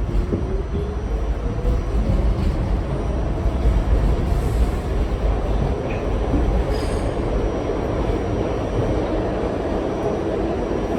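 R68 subway car running on the D line, heard from inside the car: a steady, loud rumble of wheels and motors on the track. A whine rises in pitch over the first second.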